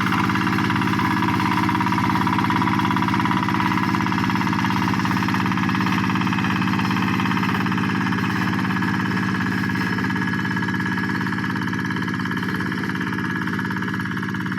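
Hand tractor engine running steadily at a constant speed, with a fast, even firing beat.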